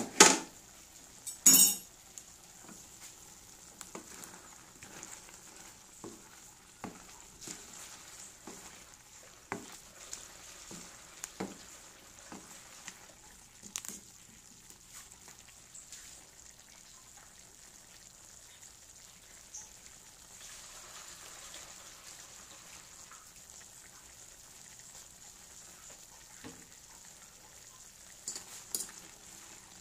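Meat and potato stew sizzling faintly in a metal pan, with the utensil scraping and clicking against the pan as it is stirred. Two louder clatters come in the first two seconds, the clicks come often through the first half, and a few more come near the end.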